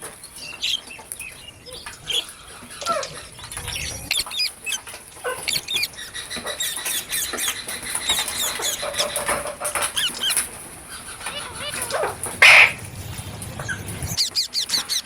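Green parrots calling: a steady run of short, quick chirps and squeaks, with one loud harsh squawk about twelve seconds in.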